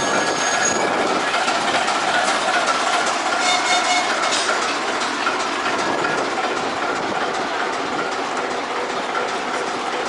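Train rolling past on the rails: a steady rumble of wheels, with clicks over the rail joints and thin, high squealing tones from the wheels. The sound eases slowly toward the end.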